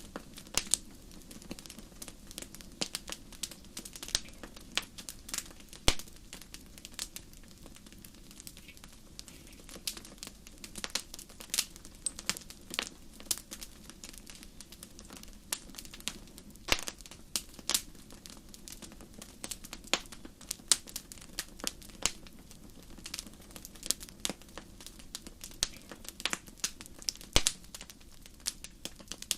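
Campfire crackling: irregular sharp snaps and pops of burning wood, a few louder than the rest, over a faint low steady background.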